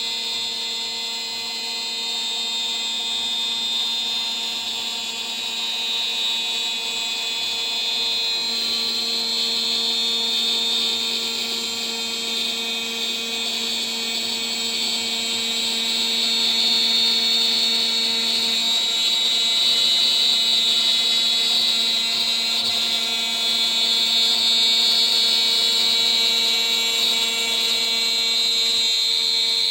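DIY CNC router milling with a 3 mm three-flute end mill, its spindle running steadily at about 14,000 RPM. A steady whine with a shrill high cutting note over it, getting a little louder about halfway through.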